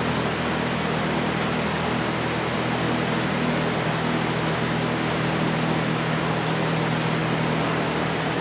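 Steady rushing noise with a constant low hum, like a fan or other air-moving machine running.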